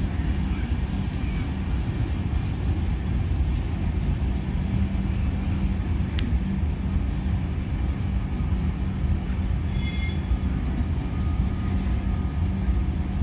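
Express train's passenger coaches rolling along the track, a steady low rumble of wheels and running gear.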